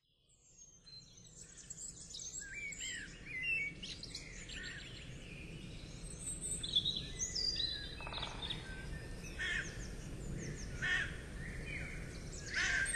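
Small birds chirping and singing: many short, quick calls that slide up and down in pitch, over a faint steady background hiss. The calls fade in from silence about a second in.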